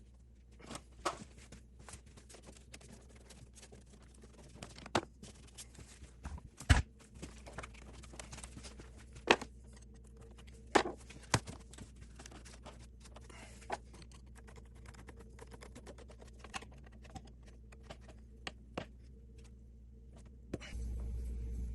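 Scattered clicks and knocks of hand tools and metal parts being handled during reassembly under the hood, over a steady low hum. About a second before the end a louder steady hum with hiss comes in.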